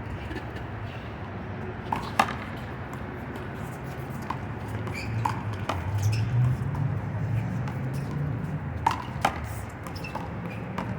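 One-wall handball rally: irregular sharp smacks of a small black rubber handball struck by hand and bouncing off the wall and pavement, about nine in all, the loudest about two seconds in.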